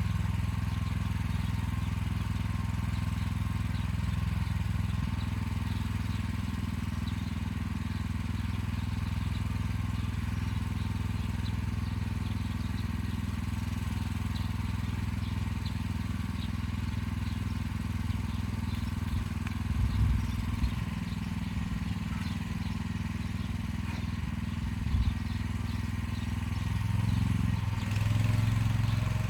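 Motor Sich walk-behind tractor engine running steadily while pulling an arrow-type hiller through potato rows. There are two brief knocks, about twenty and twenty-five seconds in, and the engine note swells near the end.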